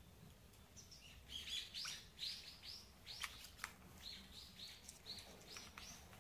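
Small bird chirping in two quick runs of short, high notes, about four a second. A few faint sharp clicks fall in among the chirps.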